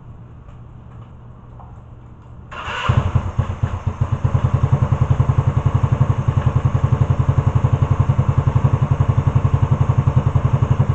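Motorcycle engine: a low hum at first, then about two and a half seconds in it comes up loudly and settles into a fast, evenly pulsing idle. The owner calls it idling real high.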